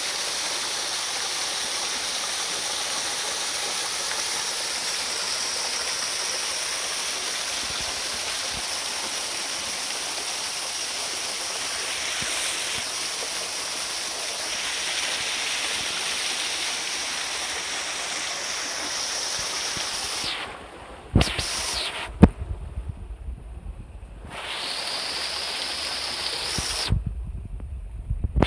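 Waterfall rushing steadily, an even splashing hiss of falling water. Over the last several seconds the rush cuts out and returns several times, with sharp knocks and low rumble in between.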